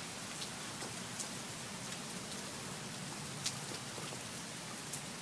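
Rain falling steadily: an even hiss with scattered sharp ticks of drops striking surfaces.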